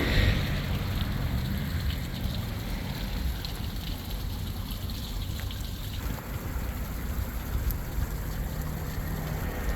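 Steady rushing road and wind noise from a moving sightseeing bus.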